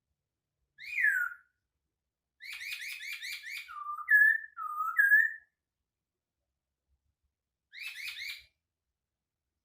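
Poksay Hongkong (masked laughingthrush) singing in whistled phrases: one down-slurred whistle, then a fast run of repeated notes flowing into loud alternating low and high whistles, and near the end another short fast run of notes.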